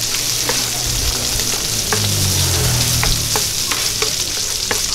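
Fried rice with sausage and corn sizzling on a hot griddle pan while two plastic spatulas stir and scrape it, with scattered sharp clicks as the spatulas tap the pan.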